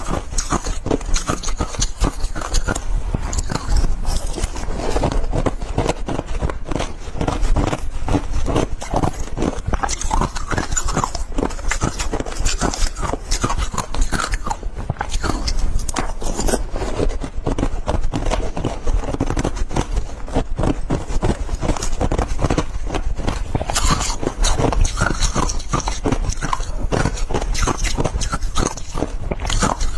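Ice being crunched and chewed close to the microphone: a dense, unbroken run of sharp crunches, several a second.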